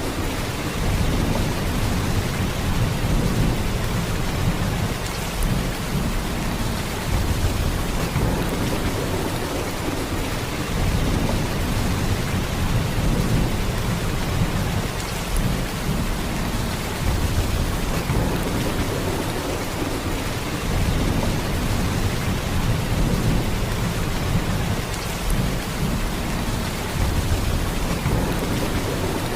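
Heavy rain: a steady downpour with a deep low rumble that swells and eases every few seconds.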